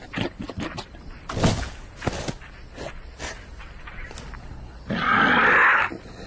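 Cartoon sound effects: a run of light knocks and clicks, then a loud, rough burst about a second long near the end.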